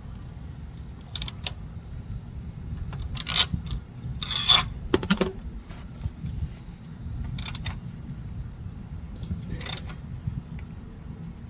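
Scattered metallic clinks and taps of hand tools being handled while a loosened plastic oil filter housing is worked off, about five separate sharp clinks over a steady low hum.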